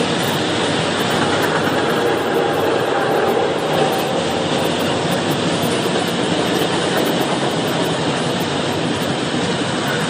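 Electric locomotive and a long line of loaded freight wagons rolling past on the adjacent track: a steady, dense noise of wheels running on rail that holds level throughout.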